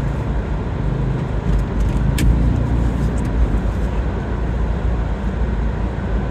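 A car driving, its engine and road noise making a steady low rumble, with one brief sharp high-pitched sound a little over two seconds in.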